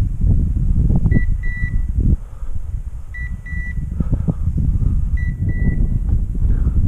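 Hunting dog's beeper collar sounding its point signal: a pair of high beeps, short then longer, repeating every two seconds, the sign that the dog is standing on point. Wind rumbles on the microphone underneath.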